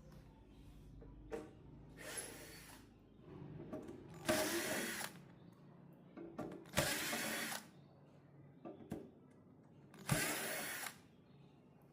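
Small handheld power tool running in four short bursts, each under a second long, with faint clicks and handling noise between them.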